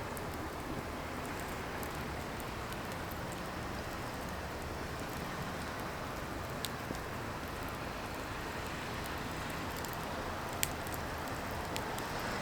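Firewood burning with a steady hiss and occasional sharp crackles and pops, the loudest pop about ten seconds in.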